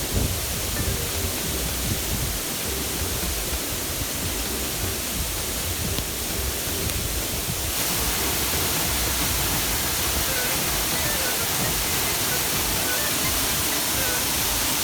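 Rushing water of a waterfall, a loud, even roar with faint music underneath. About eight seconds in the roar suddenly becomes louder and hissier.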